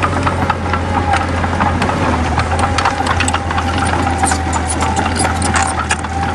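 Komatsu D20A bulldozer's diesel engine running steadily, with many sharp metallic clicks and rattles over the low hum.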